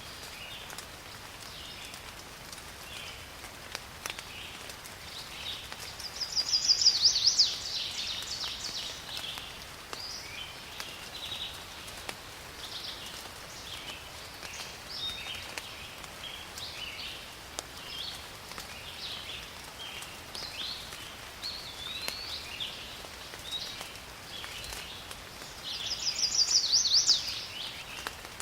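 Steady rain in a forest with many birds calling. Twice, about six seconds in and again near the end, a louder bird song of rapid high notes stands out.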